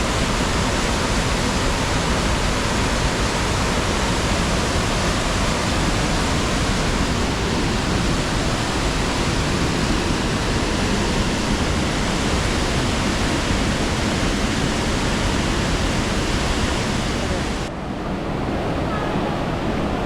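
Steady, loud rush of falling water from a nearby waterfall or cascading stream. About 18 seconds in it abruptly turns duller, losing its hiss.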